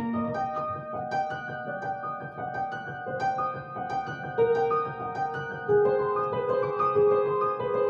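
Solo piano playing a slow melodic piece, single notes struck one after another over held lower notes.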